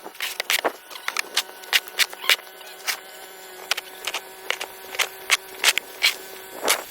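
Irregular sharp clicks and knocks, several a second and varying in strength, over a faint steady hum.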